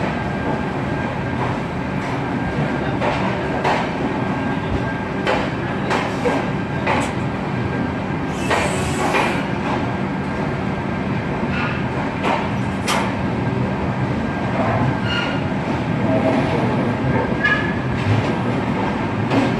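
Indian Railways passenger train running, heard from inside the carriage: a steady rumble with the wheels clacking over rail joints at irregular intervals, and a brief hiss about nine seconds in.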